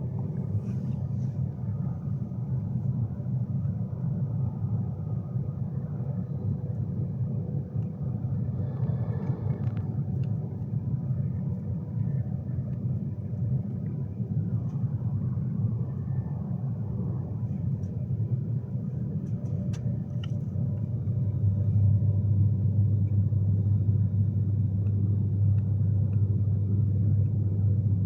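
Cabin running noise of a Class 390 Pendolino electric train at speed: a steady low rumble. It grows louder with a deeper hum about three quarters of the way through.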